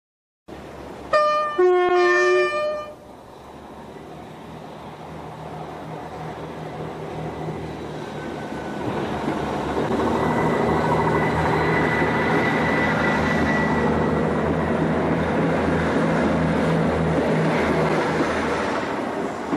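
British Rail Class 159 diesel multiple unit sounding a short two-tone horn, then the sound of its diesel engines and wheels building as it runs past and holding steady.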